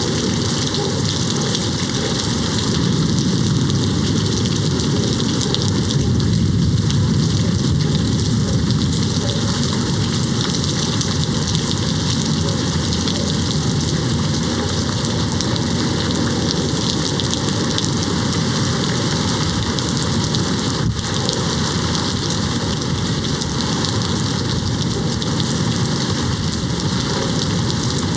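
Steady rain falling on a window, a dense even patter. A low rumble swells a few seconds in and fades again: distant thunder.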